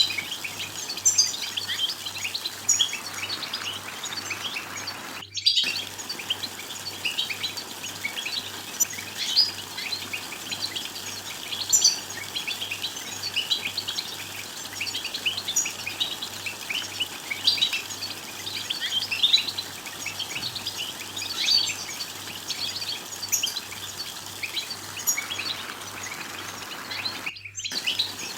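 European goldfinches twittering and chattering: a dense run of quick, high chirps and trills that overlap without pause. The sound cuts out for an instant twice, about five seconds in and near the end.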